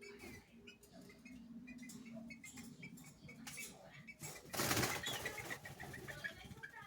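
Green-winged saltators calling in a run of short, high chip notes, the female's begging call soliciting mating. About four and a half seconds in there is a loud burst of wing flapping, followed by quicker chips.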